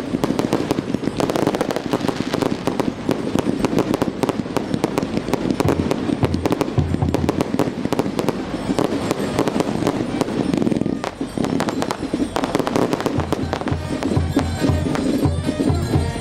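Fireworks display: a dense, continuous run of crackling pops and bangs, with music and a pulsing bass beat playing underneath from about six seconds in.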